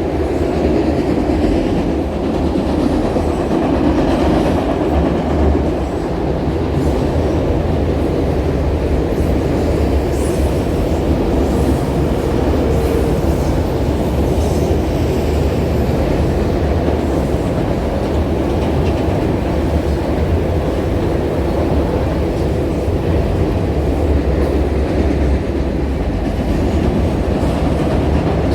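A train rolling past, its cars rumbling steadily on the rails.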